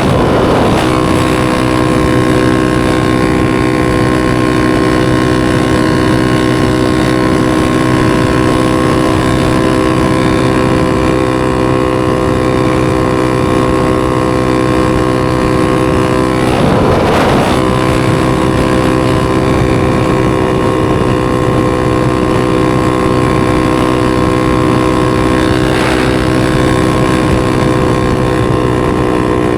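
250 cc supermoto's single-cylinder engine running at steady, unchanging revs under way.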